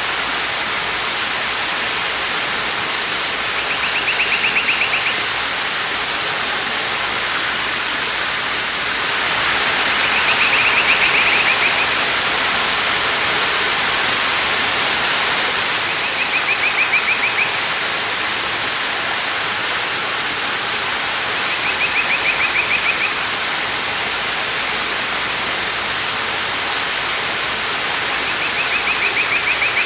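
Waterfall rushing steadily, with a bird's short rapid trill, about a second long, repeating roughly every six seconds.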